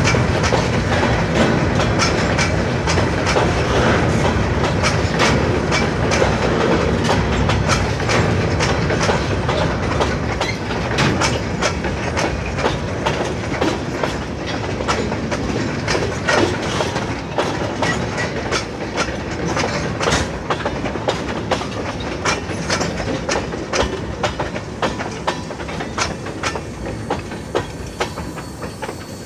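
Freight cars, covered hoppers and then tank cars, rolling past close by over a road crossing: a steady rumble with wheels clicking and clattering over the rail joints. It grows gradually quieter toward the end.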